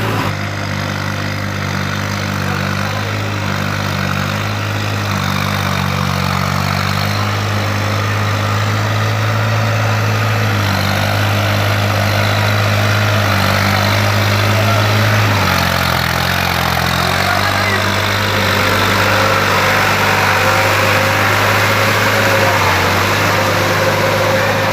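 New Holland TT55 tractor's three-cylinder diesel engine running steadily, with a brief change in its note about fifteen seconds in.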